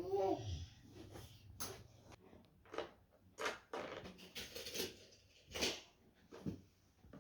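Scattered light knocks and clicks of small objects being handled, about a dozen at irregular intervals, with a brief child's vocal sound at the very start.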